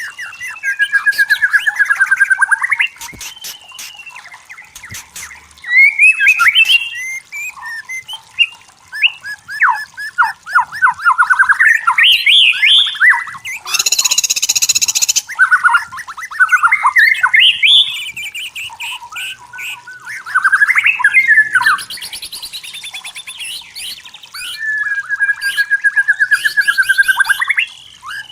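White-rumped shama singing a long, varied song of loud whistled phrases, rapid trills and quick note runs with short pauses between them, and a harsh, noisy rasping note about halfway through.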